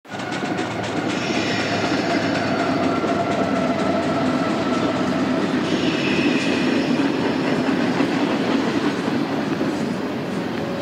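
A train running along rails: a steady rumble and rattle of wheels on the track, with a higher, harsher layer that comes in about a second in and again around six seconds.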